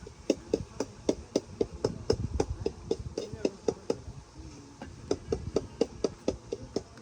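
Rapid, even knocking strikes, about four a second, each with a short ring, from hand food preparation.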